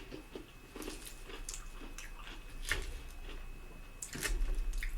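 Close-miked wet chewing and mouth smacking of a person eating, irregular clicks and squishes, loudest near the end.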